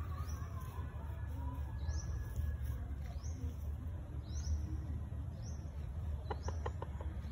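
Birds calling: a short, high, rising chirp repeated about every second, over a steady low rumble. About six seconds in, a quick run of short, lower notes.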